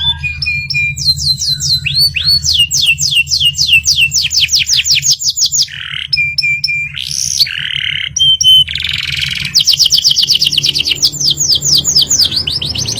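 Domestic canary singing a fast song: rolling trills of quick, repeated downward-sweeping notes, several a second, broken by short held whistles and a few harsher, rasping phrases.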